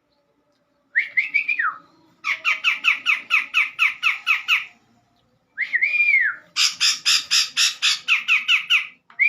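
A cucak jenggot, a bulbul, calling in runs of rapid harsh chattering notes, about eight a second. The runs are broken three times, about a second in, midway and at the very end, by a longer whistled note that rises and then slides down.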